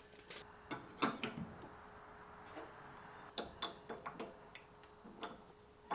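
Scattered light clicks and taps of hand tools and small hardware being handled during leaf-spring removal, over a faint steady hum.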